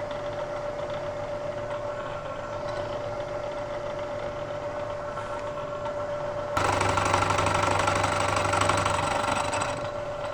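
Bridgeport milling machine spindle running at about 600 RPM with a steady whine. About two-thirds of the way in, the end mill bites into the steel block for a 25-thousandths-deep cut, a louder cutting noise lasting about three seconds, then it drops back to the spindle running alone.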